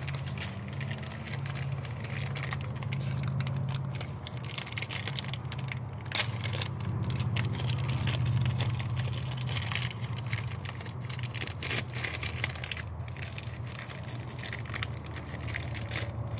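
Crinkling, crunching handling noise, a dense run of small crackles, over a steady low hum.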